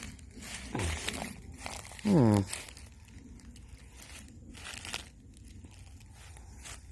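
Footsteps crunching and rustling through dry leaf litter and twigs, with one short, loud vocal sound falling in pitch about two seconds in.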